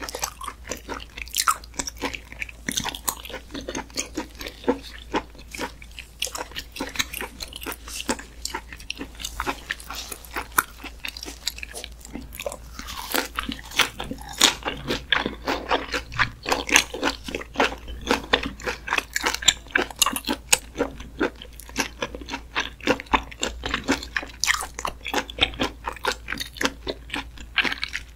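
Close-miked chewing of chewy raw duck meat slices: a steady run of wet mouth clicks and smacks, several a second.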